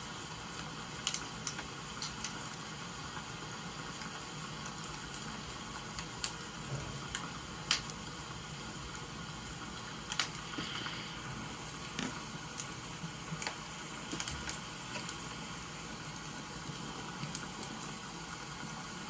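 Wood fire crackling, with irregular sharp pops over a steady hiss of rain.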